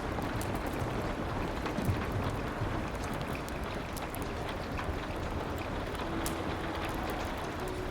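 Steady rain with scattered sharp crackles from a wood fire. A few soft, held piano notes come in near the end.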